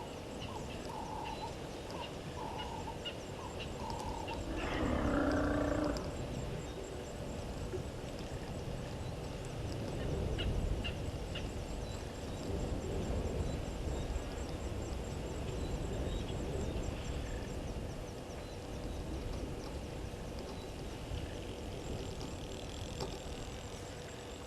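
Wild birds calling at a waterhole: a string of short repeated notes at the start, then one loud, harsh call lasting about a second and a half around five seconds in. A steady high ticking of insects runs beneath, over a low background rumble.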